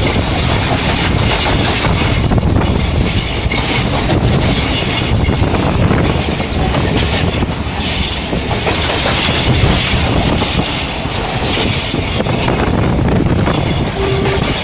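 Passenger train running along the track, heard from inside a carriage at the window: a steady noise of wheels on the rails.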